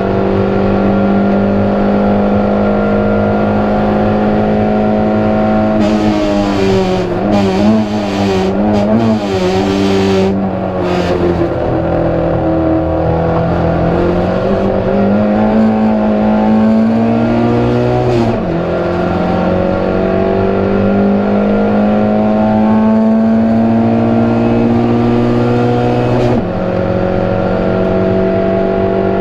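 Proton Saga race car's engine heard onboard, pulling hard with its pitch climbing steadily. About six seconds in the note wavers for several seconds under bursts of rough noise. Later it drops abruptly twice with upshifts, about two-thirds of the way through and near the end, climbing again after each.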